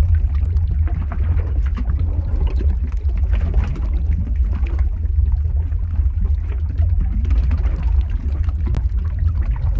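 Lava-flow ambience sound effect: a steady, deep rumble with an uneven crackle above it and a few sharp snaps.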